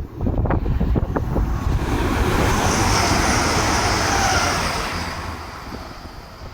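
A train passing at speed: a rushing noise that swells over a couple of seconds, holds, then dies away, its pitch sliding slightly lower as it goes by. Wind buffets the microphone at the start.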